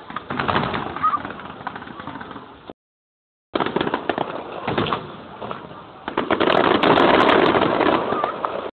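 Fireworks going off: dense crackling and popping of bursting shells, thickest and loudest in the last couple of seconds. The sound cuts out completely for under a second about a third of the way in.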